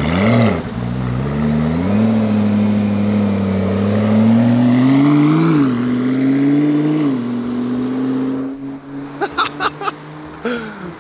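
McLaren P1's twin-turbo V8 accelerating away as the car pulls out into the road. The engine note climbs and drops back twice as it shifts up, then settles and fades as the car drives off.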